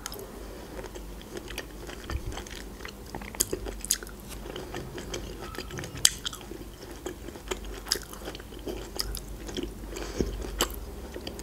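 Close-miked chewing of black olives eaten by hand: quiet, scattered wet mouth clicks and smacks, with a few sharper ticks.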